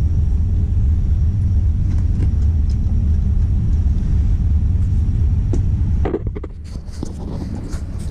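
Steady low rumble with a few faint clicks; the rumble eases about six seconds in.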